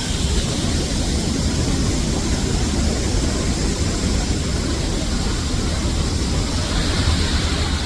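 Multnomah Falls: a steady rush of falling water with a deep low rumble beneath it.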